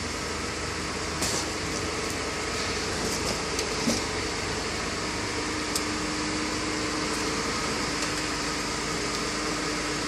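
A steady mechanical whirring hum, with a few faint clicks and a low steady tone joining about halfway through.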